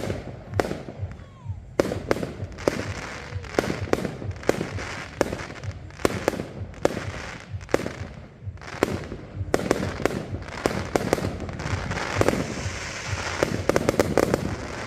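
A fireworks display: many sharp bangs at uneven intervals, some coming in quick clusters, with a crackling haze between them that thickens towards the end.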